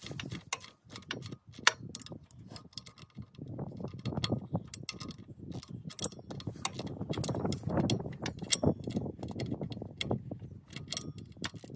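Socket ratchet clicking in quick runs and metal tools clattering as bolts on a tractor alternator mount are tightened, busiest through the middle.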